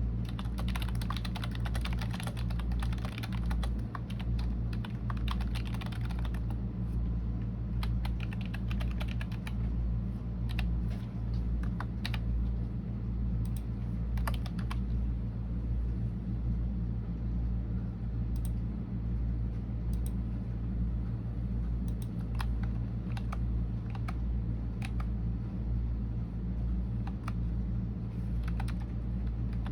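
Typing on a computer keyboard: a quick run of keystrokes for about the first six seconds, then slower, scattered keystrokes with short pauses. A steady low hum runs underneath.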